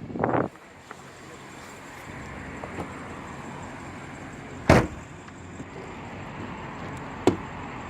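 A car door shuts with one solid thud about halfway through, and a smaller sharp click follows near the end, over a steady background hum.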